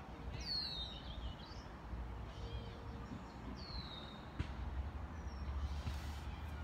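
Outdoor birdsong: two clear high chirps that slide down in pitch, about half a second in and about four seconds in, with fainter calls between, over a steady low rumble and a single sharp click partway through.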